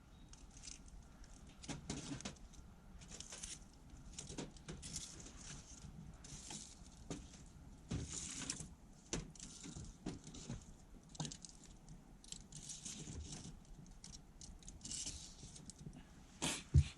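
Wood campfire crackling, with irregular small pops and snaps throughout. A single louder knock near the end.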